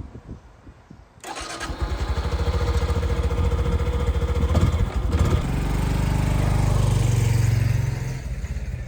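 Honda Super Cub 110's small single-cylinder four-stroke engine starting about a second in and then running. It grows louder for a couple of seconds before easing off near the end.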